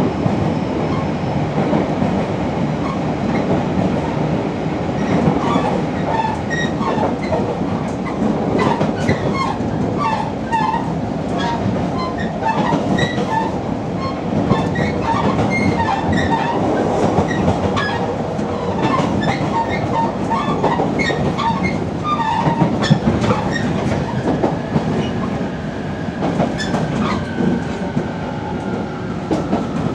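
Running noise inside a JR Kyushu 815 series electric train's motor car, fitted with a Hitachi IGBT VVVF inverter. A steady rumble of wheels on rail comes with many small clicks and rattles, and near the end a whine falls in pitch as the train slows.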